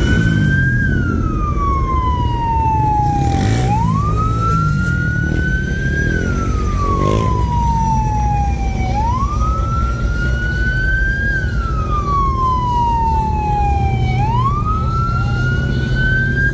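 Emergency vehicle siren on a slow wail, rising and falling in pitch about every five seconds, over a low steady rumble of car engines.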